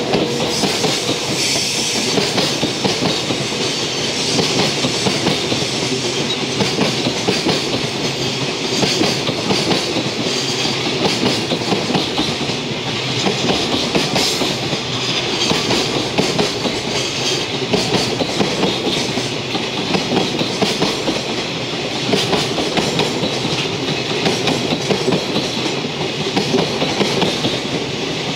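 Freight train's container flat wagons rolling past at close range, the wheels clattering steadily over the rail joints.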